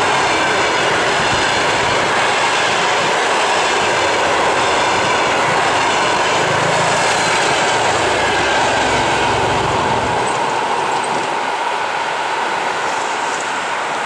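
Passenger train rolling past at speed, its wheels running over the rails with a loud, steady rush of noise. The deep low rumble drops away about ten seconds in, and the noise eases slightly.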